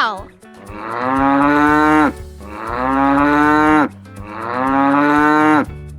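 A cow mooing three times, each moo long and drawn out with a short pause between. A short falling call, the tail of a cat's meow, is heard at the very start.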